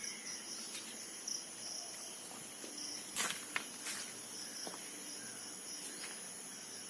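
Insects chirring in overgrown woodland: a steady high-pitched drone with a shorter chirp repeating about twice a second. A few sharp clicks sound about three to four seconds in.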